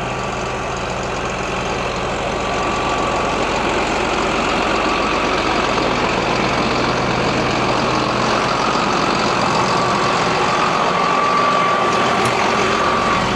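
Diesel engine of a 2005 John Deere self-propelled sprayer running steadily, with a thin whine that grows stronger in the second half.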